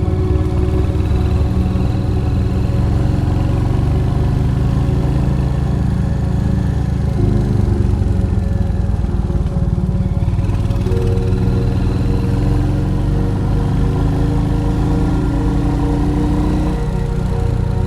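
Royal Enfield Hunter 350's single-cylinder engine running steadily while riding, a dense, even low pulse throughout.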